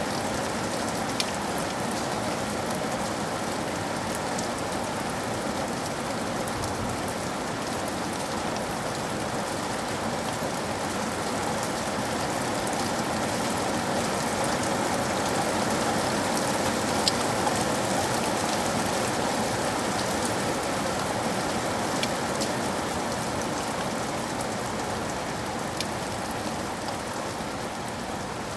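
Steady rain falling, with a few sharper drop ticks now and then. It swells slightly around the middle.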